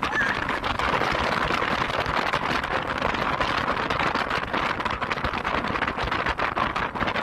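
Steady rush of wind buffeting the camera's microphone on a moving gas motorcycle, with road and engine noise mixed in.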